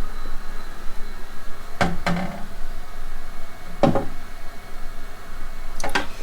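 A few short knocks and clicks from the string trimmer being handled: a pair about two seconds in, one near four seconds, and a quick double near the end, over a steady background hum.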